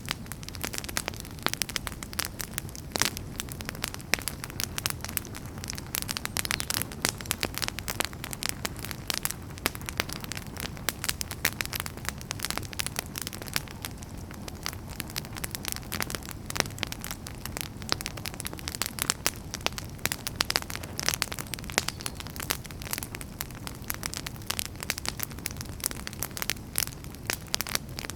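Wood fire burning in a fireplace, with dense, irregular crackles and pops over a low steady rumble.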